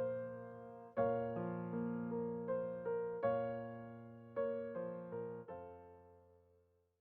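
Background music: a slow piano piece of struck chords and single notes, each ringing and decaying, the last chord fading away to silence near the end.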